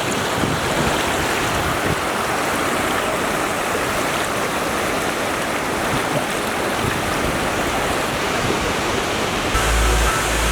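Steady rush of the Lewis River's water at Lower Lewis Falls. Background music with a low bass comes in about nine and a half seconds in.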